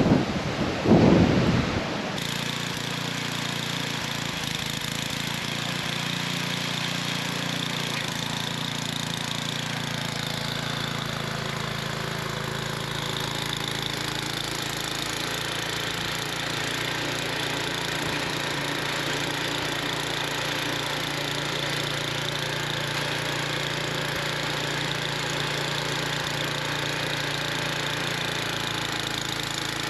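Wind gusting on the microphone, then from about two seconds in the steady running of a gasoline snowblower engine under a wash of noise.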